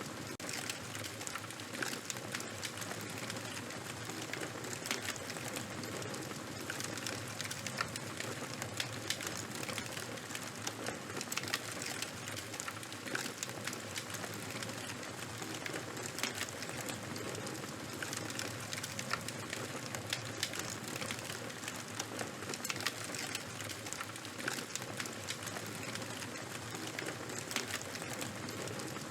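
Fire burning steadily, with a constant hiss and frequent small sharp crackles and pops.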